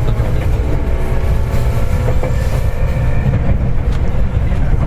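Seibu 4000 series electric train running between stations, heard from inside the car: a steady low rumble of wheels on rail, with a faint steady whine above it. A single click from the wheels passing a rail joint comes about two seconds in.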